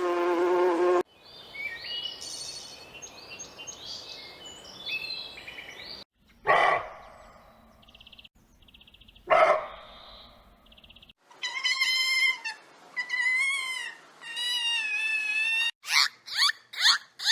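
A run of short animal call clips cut one after another: high bird chirping, two short loud noisy calls about three seconds apart, then several high, wavering pitched cries and a quick series of falling chirps near the end.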